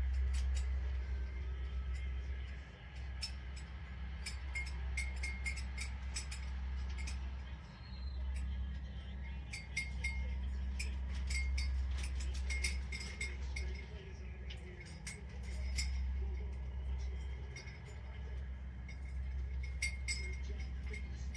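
Plastic toy chains and a plastic ball toy clinking and rattling in irregular clusters of quick clicks, each with a short ring, as a parrot plays with them, over a steady low hum.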